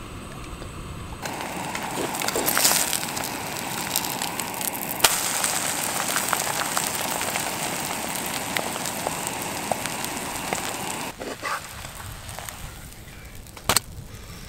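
A whitebait fritter sizzling and crackling in hot oil in a frying pan. The sizzle starts about a second in and fades after about eleven seconds, and a single sharp knock comes near the end.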